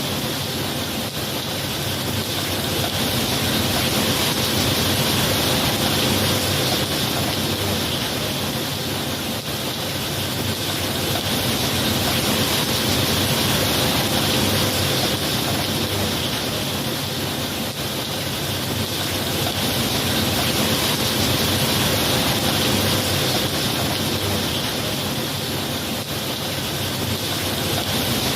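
Steady rain falling, a dense even hiss that swells and eases slowly every eight seconds or so.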